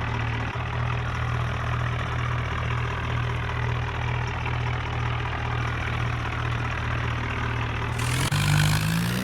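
Tractor engine running steadily at idle; near the end its pitch steps up and it gets a little louder with added hiss.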